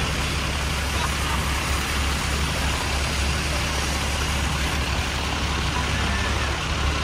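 Steady rain falling on an umbrella, with city street traffic running underneath as a constant low hum.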